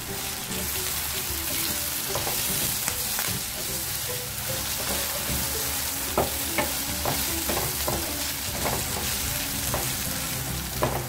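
Prawns and curry leaves sizzling in coconut oil in a frying pan, stirred with a wooden spatula that scrapes and taps against the pan now and then.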